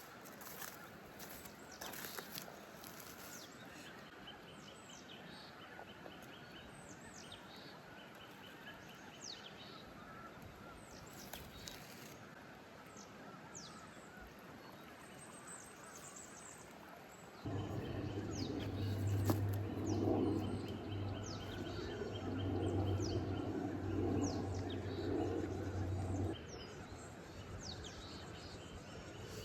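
Small songbirds chirping and trilling, with many quick falling notes. About seventeen seconds in, a steady low mechanical hum starts abruptly, runs for about nine seconds as the loudest sound, then cuts off suddenly.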